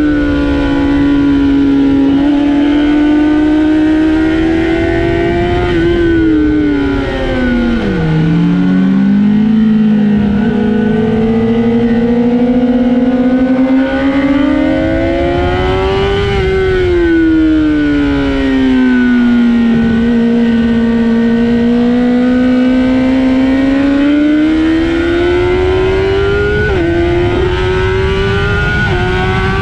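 Honda CBR1000RR Fireblade's inline-four engine at high revs on track, its pitch climbing as it accelerates and falling away as it slows for corners, twice over. A sharp drop in pitch near the end marks an upshift.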